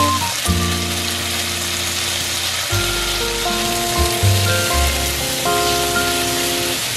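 Chicken thighs sizzling in a frying pan, fried skin side first in the fat from the skin, while they are turned with tongs. Background music with a melody and bass notes plays over it.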